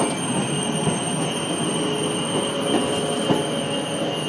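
PKP Intercity passenger coaches rolling slowly along the platform: a steady rumble of wheels on rail with a thin high squeal over it and a few clunks from the wheels.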